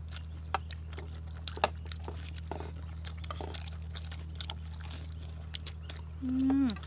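People chewing crispy fried food, with scattered small clicks and crunches and light taps of spoons on plates, over a steady low hum. A short voiced sound with falling pitch comes near the end.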